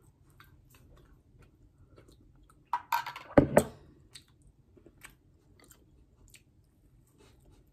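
Close-miked eating sounds: soft chewing and small mouth clicks, with a brief louder burst and a sharp knock about three seconds in.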